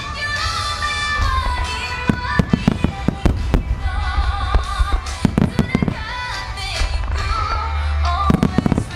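Aerial firework shells bursting in rapid volleys of sharp bangs, bunched about two seconds in, around five seconds in and again near the end, over loud music played for the synchronized show.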